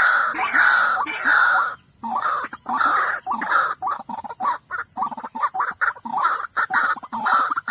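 White-breasted waterhen calling: a loud, repeated series of harsh croaking notes, even and regular at first, then breaking into faster, choppier notes from about four seconds in.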